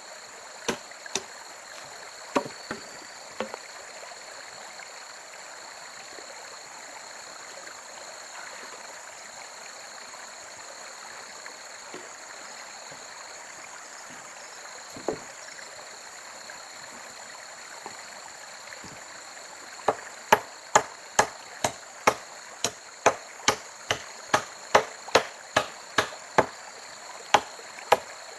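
Chopping blows of a blade on wood: a few strikes at the start, a lone one about halfway, then a steady run of about two blows a second through the last eight seconds.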